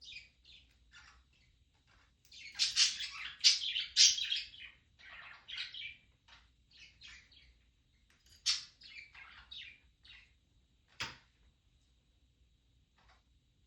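Budgerigars chirping and chattering in irregular bursts, loudest between about two and four and a half seconds in, with a single sharp click about eleven seconds in.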